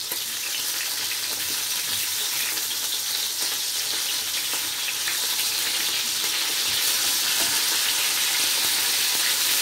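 Lamb chops sizzling in hot fat in a frying pan as they are turned over with a wooden spatula: a steady hiss that gets a little louder about halfway through.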